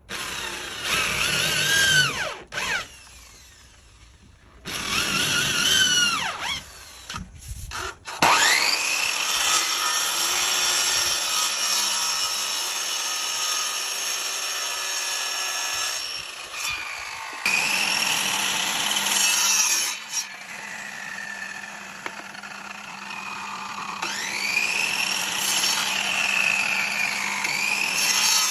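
Electric power tool working wood, its motor whine rising and falling in pitch as it takes and eases off the cut. It runs in three short bursts over the first eight seconds, then in one long run until just before the end.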